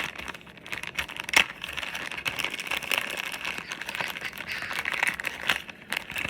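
Packaging crinkling and crackling as a small helmet-mount accessory is handled and taken out, with a dense run of sharp crackles and one louder click about a second and a half in.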